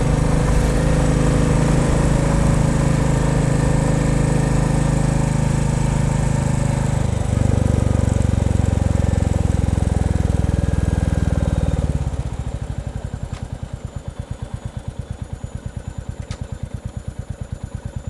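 Royal Enfield Bullet 350 single-cylinder engine running steadily and loudly, with a change in its note about seven seconds in. About twelve seconds in it drops to a quieter, slower, evenly pulsing beat of single firing strokes, as when throttled back toward idle.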